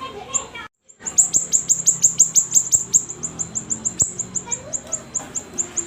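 Siri-siri songbird singing a fast run of high, thin chirps, each note sliding down in pitch, about five or six a second, with a short break just before a second in.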